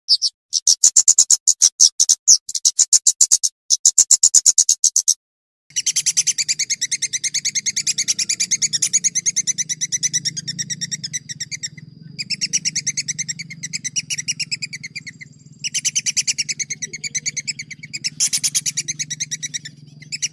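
A small songbird singing long, rapid rolling trills of high repeated notes, in stretches that start and stop abruptly as the recording is cut. A low hum runs beneath the trills from about six seconds in.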